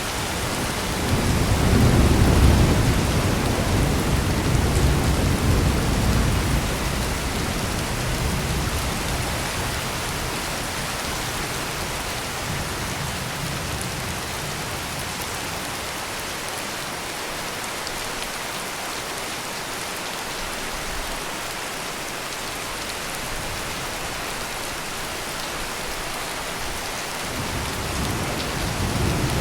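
Heavy rain pouring steadily, with thunder: a low rumble swells about two seconds in and fades out over several seconds, and another rumble begins to build near the end.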